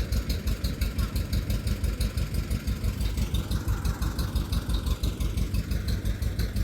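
John Deere 70 two-cylinder tractor engine, just fired up, idling with a steady, even popping beat of about five pops a second.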